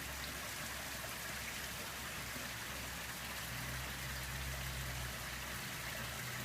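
Heavy rain falling steadily, a constant hiss. A low steady hum comes in about halfway through.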